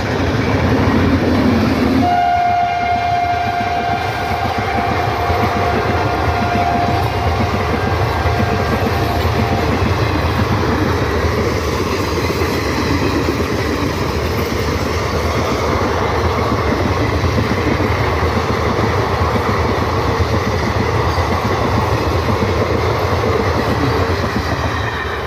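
Indian Railways express train passing at speed behind an electric locomotive. Its horn sounds one long blast from about two seconds in until about ten seconds in, then the coaches run past with steady wheel-on-rail clatter.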